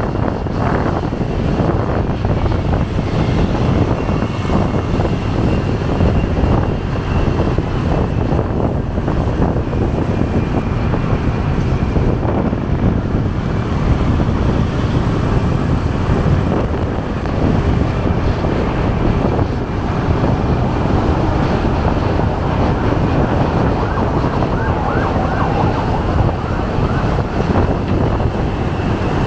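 Wind rushing over the microphone and traffic noise on a moving motorcycle, steady throughout. A faint wavering siren sounds about three-quarters of the way through.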